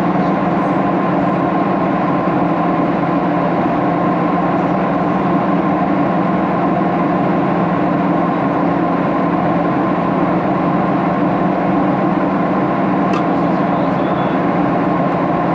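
Steady cabin drone of a Boeing 737-800 in flight: its jet engines and the airflow around the fuselage make an even rushing noise with a constant low hum.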